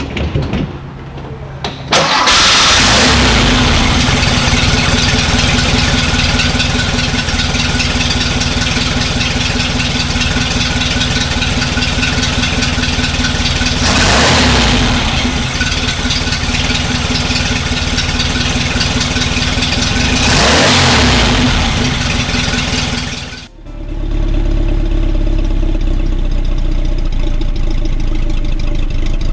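1969 Porsche 912's air-cooled flat-four on a cold start, catching about two seconds in and settling into a steady run. The throttle is blipped twice. Near the end the sound cuts out briefly and comes back as a steadier, lower engine drone.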